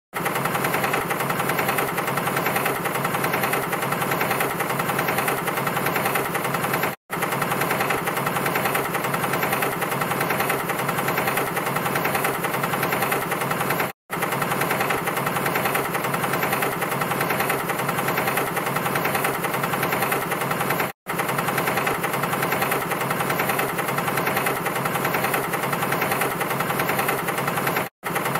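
Looped tractor engine sound effect, the moving sound used for Terence the Tractor: an engine running steadily with a rough, chugging beat. It cuts out for a split second about every seven seconds where the loop restarts.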